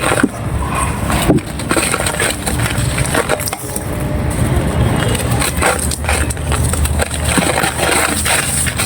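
Dry pressed red sand being crumbled: an irregular run of crisp crunches and cracks as the brittle pieces break apart.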